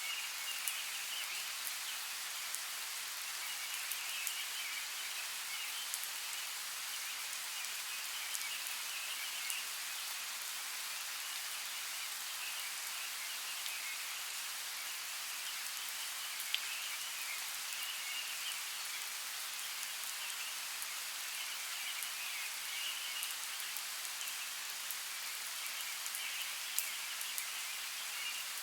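Steady rain falling as an even hiss, with scattered sharp drop ticks. A high, faint pulsing chorus swells and fades every few seconds behind it.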